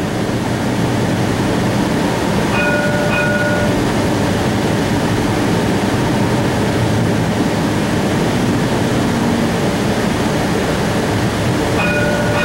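Cincinnati Bell Connector streetcar, a CAF Urbos 3 light-rail car, running along its track, heard from inside the car as a steady rumble. A brief steady whine of several tones comes in twice, about two and a half seconds in and near the end.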